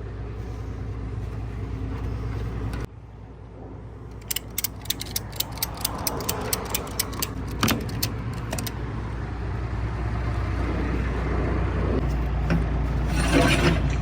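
Ratchet tie-down strap being cranked tight, a run of sharp metal clicks about three a second, over the steady low hum of a vehicle engine idling.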